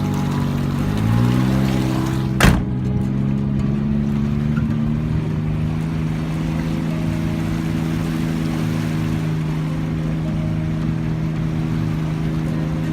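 A vehicle engine running steadily. Its pitch rises about a second in, there is a single sharp click about two and a half seconds in, and then it holds a steady pitch.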